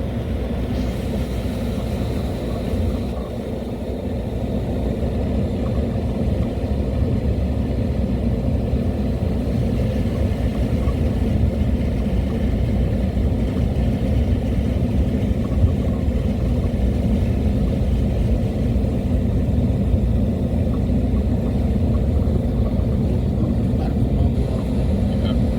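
Car engine and road noise, a steady low rumble while driving, growing slightly louder about four seconds in.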